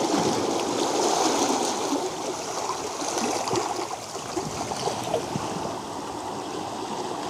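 Small stream or waterfall running over rocks: a steady rush of water with bubbling and gurgling throughout.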